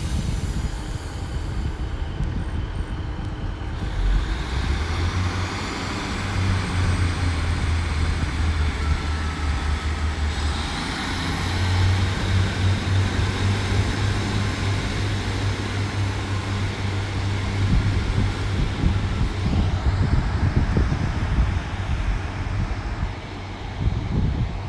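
Diesel multiple unit pulling away from the platform. Its engines step up in revs about four seconds in and again about ten seconds in, with a thin high whine rising in pitch, and they keep running under power as the train leaves.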